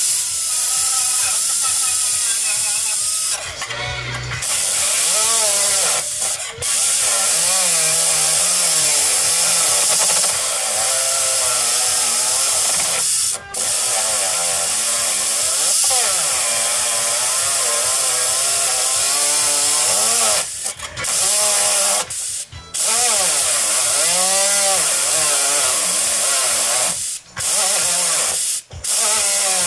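A power tool cutting sheet steel, running hard with a whine that wavers up and down as it bites. It breaks off briefly several times.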